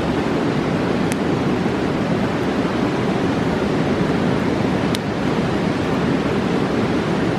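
A roaring mountain river rushing steadily, with a couple of faint crackles from the campfire.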